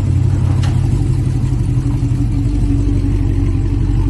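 Cadillac V-series car's engine and exhaust running steadily with a low, even drone, still through its current long muffler.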